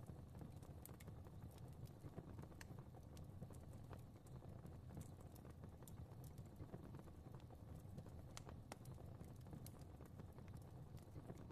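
Fireplace fire crackling softly: irregular small pops and snaps over a low, steady rumble of flames.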